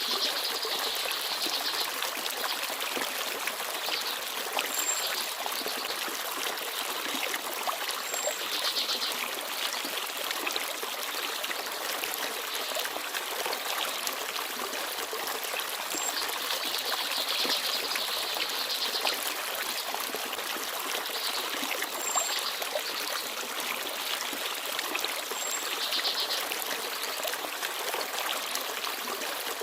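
Forest stream babbling steadily over stones, with a few brief high bird chirps now and then.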